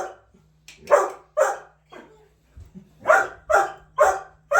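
Dog barking in quick runs: two sharp barks, a pause of about a second and a half, then four more in a row.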